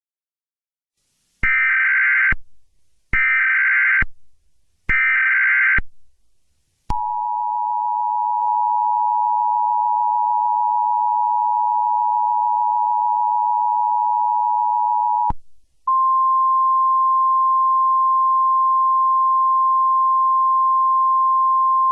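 Emergency Alert System alert tones: three short bursts of screeching SAME header data, then the two-tone attention signal held for about eight seconds, then a steady single tone, like the weather-radio warning alarm, that runs on to the end. The tones announce an emergency warning.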